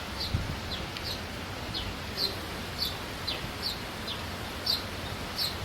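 Common kingfisher calls: a run of short, high, piping notes, each falling slightly in pitch, about two a second, over a low steady rumble.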